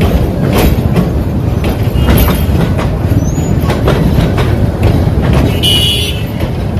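Passenger train coaches rolling slowly past, wheels clacking over the rail joints over a steady low rumble. A short high screech comes near the end.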